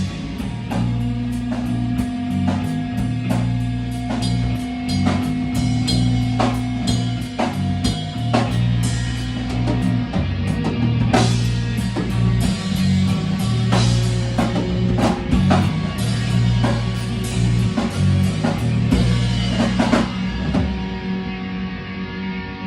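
Rock band playing an instrumental passage with drum kit, bass and electric guitar. The drums stop about two seconds before the end, leaving the guitar ringing on.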